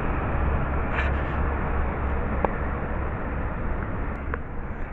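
Two street sweepers running past: a steady engine drone and dense road noise that slowly fades toward the end, with a few faint ticks.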